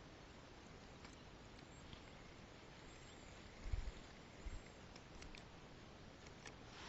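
Near silence: a faint steady outdoor hiss with a few light ticks and two dull low thumps about four seconds in.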